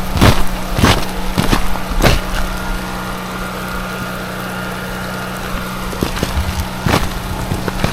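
A 7,500-watt portable generator engine running steadily with a low hum. Footsteps on icy ground sound over it, about every half second in the first two seconds and again near the end.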